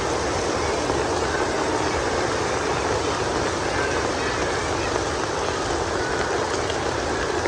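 Heavy rain falling steadily: a constant, even hiss of water that neither rises nor falls.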